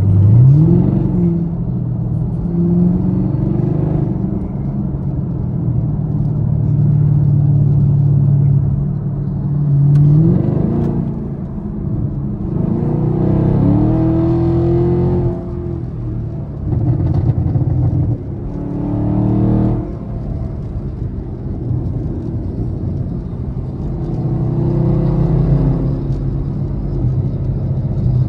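Chevrolet Camaro SS's 6.2-litre V8 heard from inside the cabin while accelerating on a highway: the engine note climbs in pitch several times as it pulls, with steadier cruising between the pulls.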